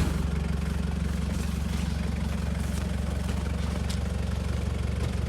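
A 4x4's engine running steadily at low revs, with a short knock right at the start.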